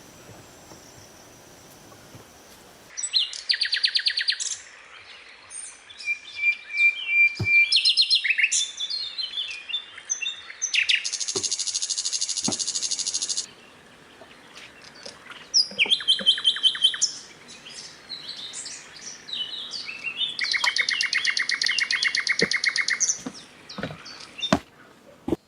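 Tropical forest birds calling: many rapid chirping trills and pulsed calls, starting about three seconds in, with two long, evenly pulsed trills that are the loudest parts.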